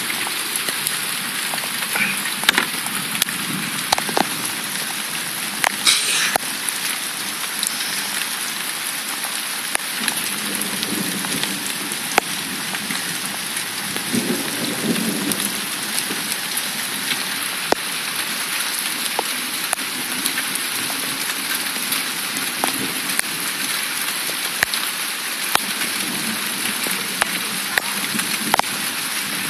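Heavy rain pouring down: a steady hiss with many sharp drop hits close by. A low rumble of thunder sounds about halfway through.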